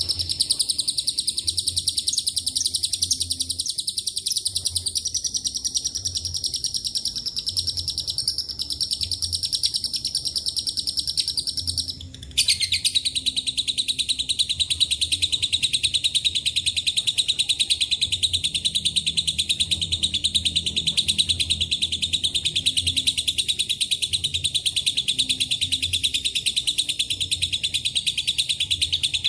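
Lovebird giving a long, unbroken 'ngekek' trill, a very rapid high-pitched chatter. It stops briefly about twelve seconds in, then starts again slightly lower in pitch and runs on.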